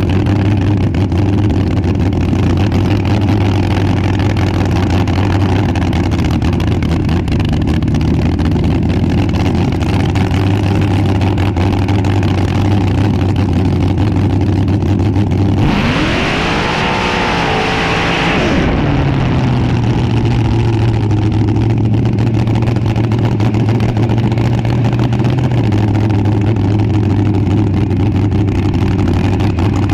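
Front-engine dragster engine running at a steady idle; about halfway through it revs up and falls back over about three seconds, then settles back to idle.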